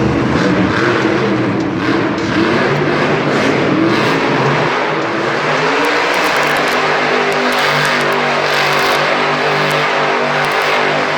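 A monster truck's engine is revving loudly, its pitch rising and falling.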